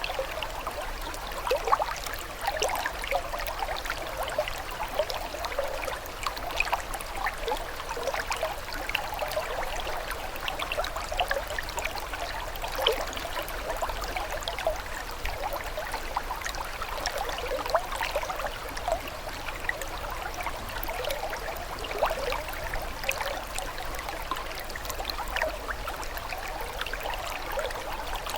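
Water trickling and babbling steadily, as in a small stream: a continuous patter of small bubbling plinks with no pauses.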